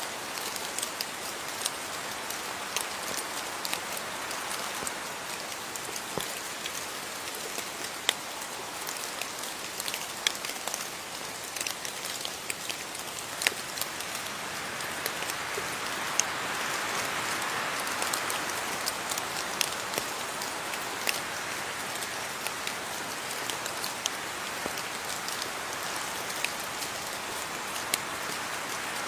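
Steady rain falling, an even hiss with many sharp individual drops tapping close by; it swells a little about halfway through.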